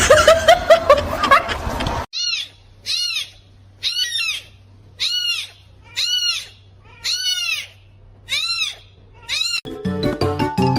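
A small animal crying out: about eight short, high calls that each rise and fall, evenly spaced about a second apart. Before them is a brief noisy stretch, and music starts near the end.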